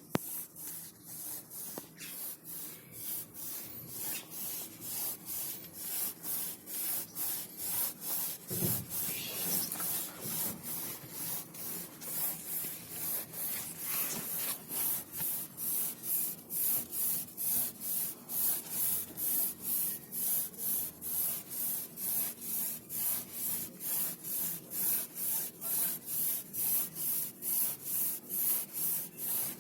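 Emery paper rubbed back and forth on metal in even strokes, about two a second, smoothing the scored crank and big end bearing surfaces of a Cummins truck engine after a spun big end bearing. There is a brief low knock about nine seconds in.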